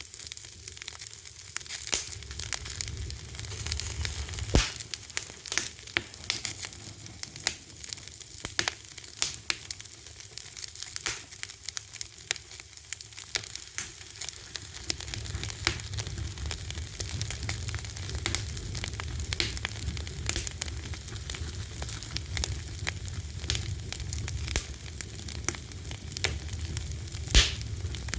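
Fire crackling and popping with irregular sharp snaps over a soft steady hiss and low rumble. One sharp pop stands out near the end.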